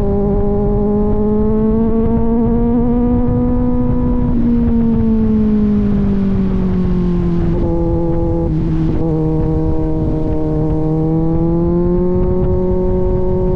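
Kawasaki Z900's inline-four through an aftermarket AR exhaust, running at a steady cruise while riding. The note climbs slightly, eases lower about five seconds in, breaks briefly a little past halfway, then climbs gently again near the end, over a low rumble of wind and road.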